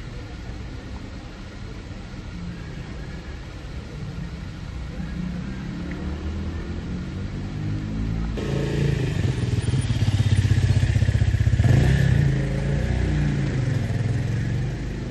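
A motor vehicle engine running close by, rising in pitch and growing louder, loudest about ten to twelve seconds in, then easing off a little.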